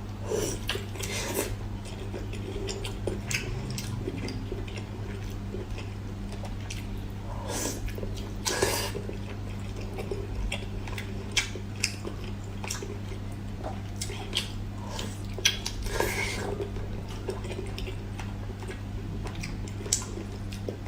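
A person eating: chewing and wet mouth sounds with scattered short clicks, over a steady low hum.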